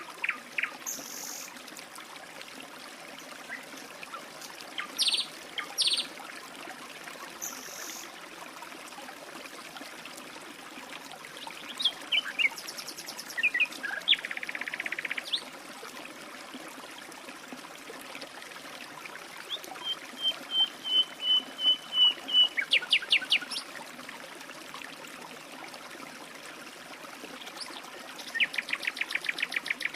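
A stream trickling steadily, with songbirds calling now and then over it: short chirps, then rapid trilled runs of notes around the middle and again near the end.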